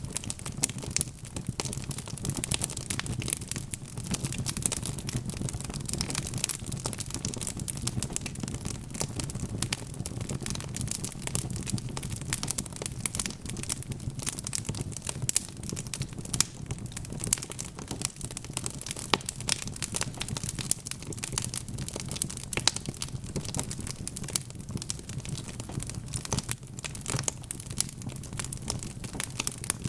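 Wood fire burning in a fireplace, with dense, irregular crackling and snapping pops over a low steady rumble of the flames.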